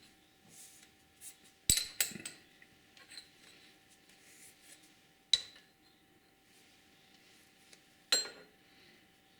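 Metal tools or steel parts clinking as they are handled and set down on a workbench: a quick double clink about two seconds in, another about five seconds in, and one more near the end, each with a short ring.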